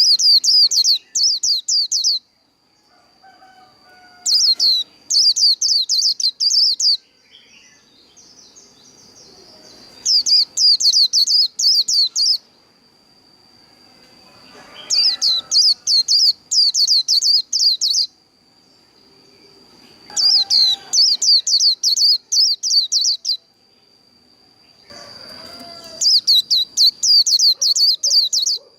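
White-eye singing its rapid 'líu' fighting song: six bouts of fast, high, trilling notes, each two to three seconds long, separated by short pauses. A thin steady high whine runs underneath.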